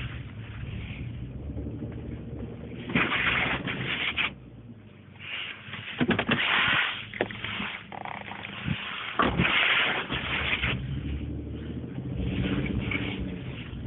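Pickup truck ploughing through snowdrifts: the engine runs low and steady under repeated rushing, scraping surges of snow against the truck's front and body, about four big ones.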